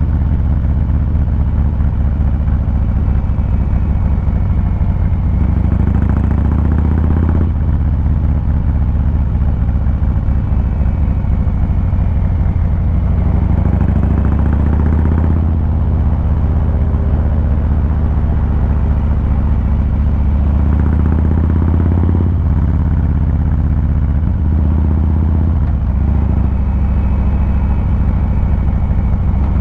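Harley-Davidson Fat Boy 114's Milwaukee-Eight V-twin running on the move, its exhaust loud and steady. The engine note changes a few times, about 7, 15 and 22 seconds in.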